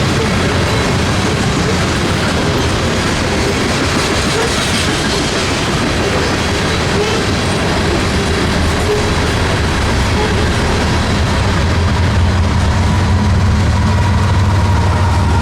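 Train cars rolling past on the rails, a steady clatter of wheels on track. Near the end a low engine rumble grows louder.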